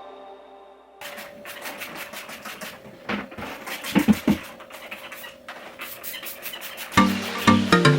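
Irregular scratching and rubbing noises with a few short knocks, between the fading end of one piece of background music and the start of another with a steady beat about seven seconds in.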